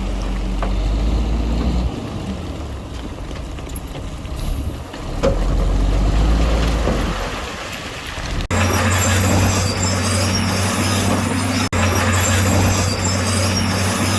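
Diesel engines of heavy earthmoving machinery running steadily at work. The sound changes abruptly about eight seconds in, with a short dropout a few seconds later.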